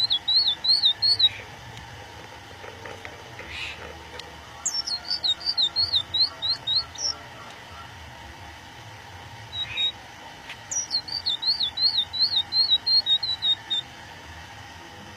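Budgerigar (parakeet) chirping in three runs of quick, high, up-and-down notes. Two of the runs open with a falling whistle.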